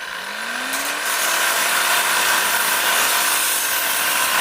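Angle grinder spinning up, its whine rising over about the first second, then running steadily under a loud hiss.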